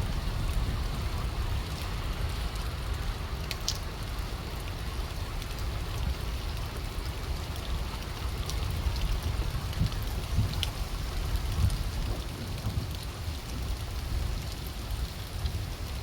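Heavy rain falling in strong storm winds, the wind rumbling on the microphone, with a few sharp ticks of drops or debris striking.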